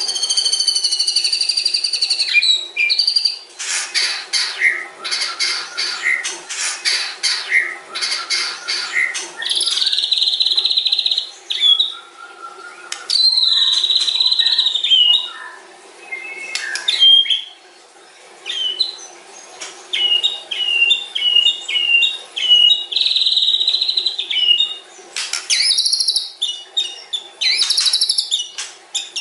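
White-rumped shama (murai batu) singing a long, varied song of clear whistles. It includes a run of sharp rattling clicks early on and a series of short repeated notes about two-thirds of the way through.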